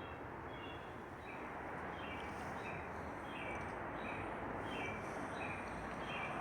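A bird calling over and over in short, high chirps, about two a second, each dropping slightly in pitch. Behind it is a steady hiss of outdoor background noise.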